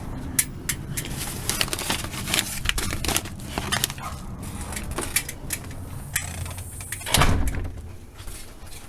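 Handling noise: a string of small clicks, rustles and knocks, with a heavier thud about seven seconds in.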